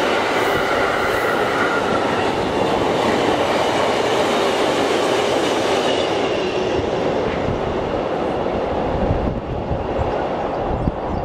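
Empty double-deck car-transporter wagons of a freight train rolling past on the rails, with a high wheel squeal in the first couple of seconds. The rolling noise then slowly fades as the tail of the train moves away.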